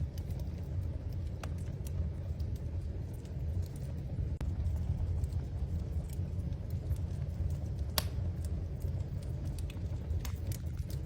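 Wood fire in a fireplace crackling: scattered sharp pops and snaps over a steady low rumble, with one louder pop about eight seconds in and a quick run of pops near the end.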